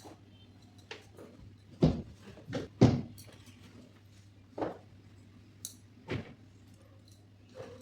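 Irregular knocks and thuds of household things being handled, about eight in all, the loudest two about two and three seconds in, over a faint steady low hum.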